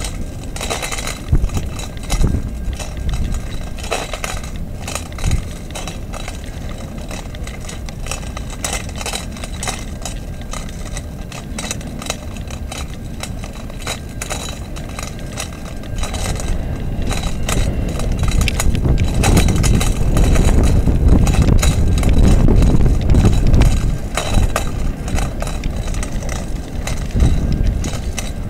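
A freight train's cars rolling past with a steady clatter, mixed with road traffic; a low rumble swells about two-thirds of the way through and eases near the end. Jingling metallic clinks sound over it throughout.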